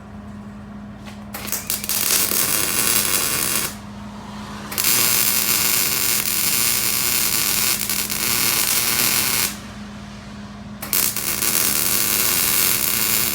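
Hobart Handler 190 MIG welder arcing in three runs of a few seconds each, with short pauses between: the steady buzzing crackle of wire being welded onto a rusty exhaust flange.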